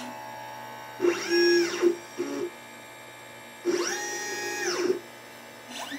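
LitePlacer pick-and-place machine's stepper motors whining through two head moves, each rising in pitch, holding, then falling as the gantry speeds up and slows down, with a brief lower whir between them.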